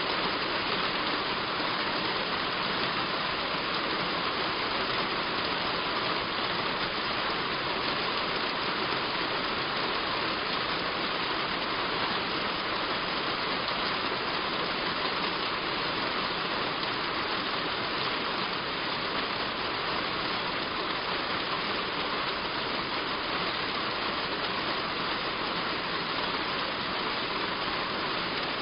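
Heavy rain falling steadily on a roof, an even hiss with no let-up.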